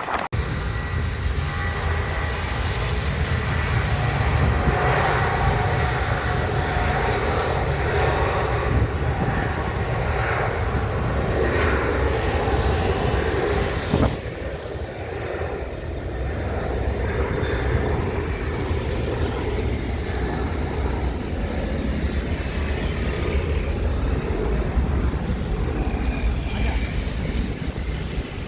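Jet airliner engines running: a steady, loud rumble with a hiss over it, and a brief knock about halfway through.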